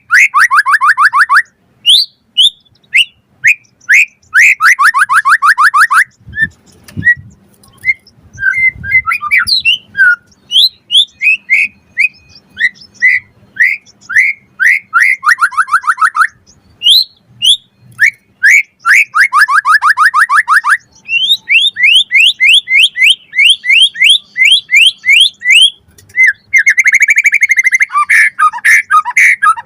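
White-rumped shama (murai batu) singing a loud, varied song: bursts of rapid repeated chirps and fast trills alternating with sweeping whistled notes, with short pauses between phrases.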